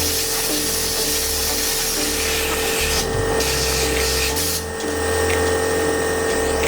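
Two spells of loud hissing spray, the first about three seconds long and the second about a second, over a steady machine hum.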